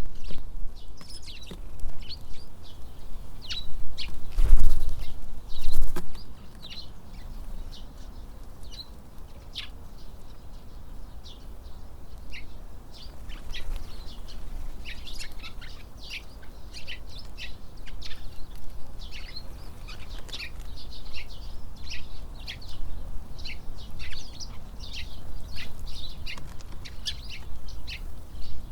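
Tits at a feeder calling with many short, high chirps, which come thicker in the second half. Underneath, wind buffets the microphone with a low rumble and strong gusts in the first six seconds.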